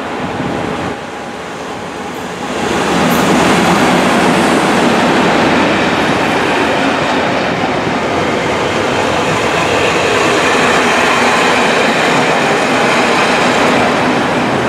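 Passing Network Rail test train top-and-tailed by two Class 37 diesel locomotives. It gets much louder about two and a half seconds in, as the leading locomotive's engine and the train's wheels pass close by, then stays a loud, steady rumble of wheels on rail while the coaches and the rear Class 37 go by.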